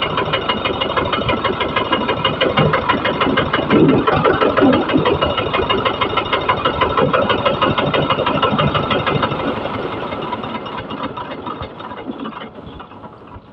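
Old tractor engine running steadily with a fast, even knock, fading over the last few seconds.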